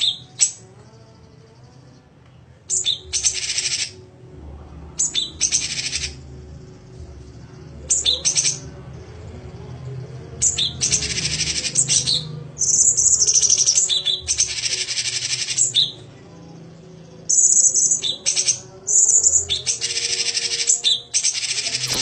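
A songbird singing loud, rapid, harsh phrases, each lasting up to about a second and a half with short pauses between them, mixed with a few clearer whistled notes. A faint steady low hum runs beneath.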